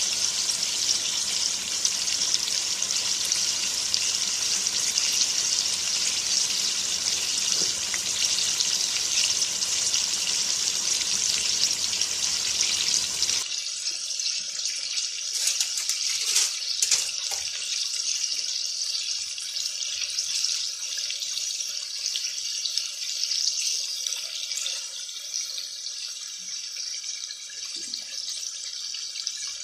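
Chicken pieces frying in oil in a wok, a steady sizzle. About halfway through it drops abruptly to a thinner, quieter sizzle, with a few light knocks as a piece is turned over.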